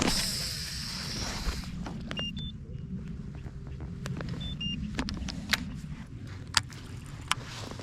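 A cast with a baitcasting rod and reel: line hisses off the spool for about a second and a half, then the reel is cranked in with a steady low whir and a few sharp clicks.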